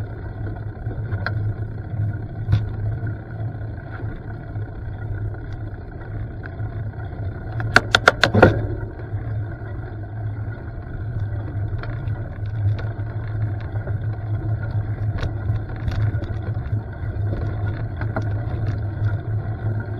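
Steady low rumble of a mountain bike rolling along a dirt trail, with scattered knocks and a quick run of about five loud clacks about eight seconds in, as the bike rattles over bumps.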